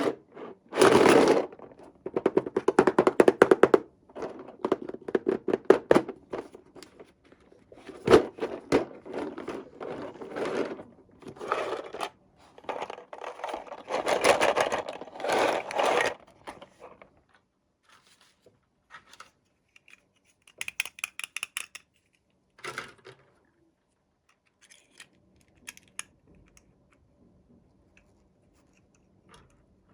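Toy packaging being handled and opened: a run of rapid crackling and rustling with small knocks for the first half, then scattered clicks and taps.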